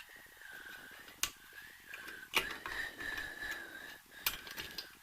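Sharp metallic clicks and small ticks from drum brake parts being handled, three louder clicks among them, as the shoe hold-down fittings are worked against the backplate. A faint high wavering tone sounds behind them.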